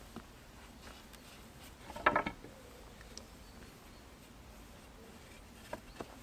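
Scattered light clicks and knocks over a quiet background, with a short louder clatter about two seconds in and two more clicks near the end.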